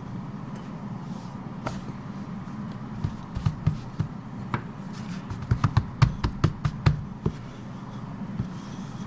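Biscuit dough being rolled out with a rolling pin on a floured counter: a run of irregular soft thumps and taps through the middle few seconds, over a steady low hum.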